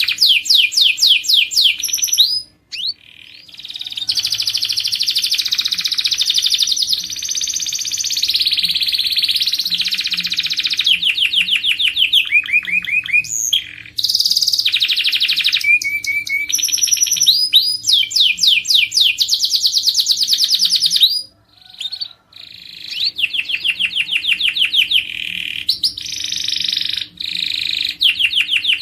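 Domestic canary singing a long song made of rapid trills, each a fast run of the same sweeping note repeated, changing from one trill to the next. The song breaks off briefly twice.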